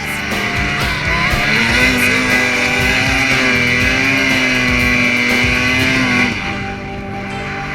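Snowmobile engine running at high revs, held steady for several seconds and then easing off about six seconds in, with music underneath.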